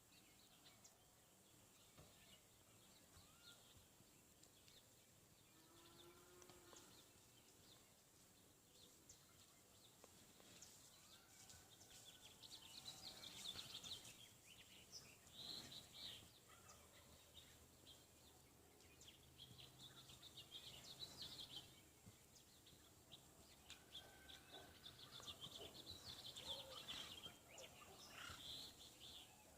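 Faint bird chirps and calls over quiet background noise, growing more frequent about halfway through.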